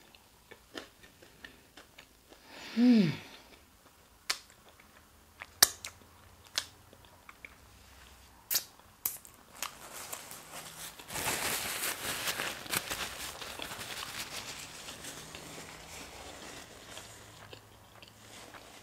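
Close-miked eating sounds: chewing and wet mouth clicks, with a short falling hum of enjoyment about three seconds in. From about eleven seconds there are a few seconds of rustling.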